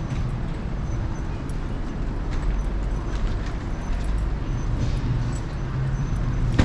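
Electric scooter rolling over city pavement, heard through a camera clamped to its handlebars: a steady road rumble with scattered rattling clicks, and a sharper knock near the end.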